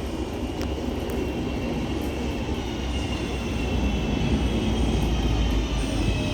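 Electric passenger train pulling into the platform: a low rumble that grows louder, with a faint whine slowly falling in pitch as it slows.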